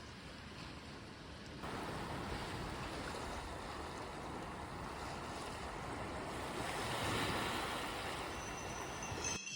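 Sea waves washing on the shore, an even rushing that swells gently now and then, with wind on the microphone.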